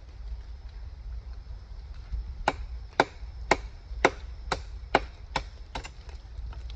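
A run of about eight sharp chopping strikes, roughly two a second, starting a couple of seconds in, the last one fainter.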